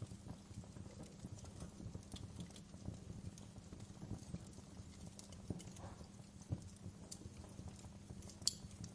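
Wood fire in a fireplace crackling: a dense low crackle of burning logs and embers, with scattered sharp pops, the loudest near the end.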